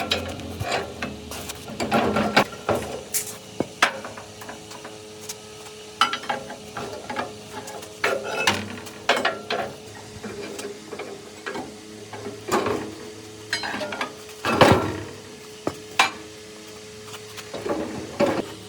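Irregular clinks, knocks and scrapes of hand work on machine parts, coming in uneven clusters with one louder knock near the end.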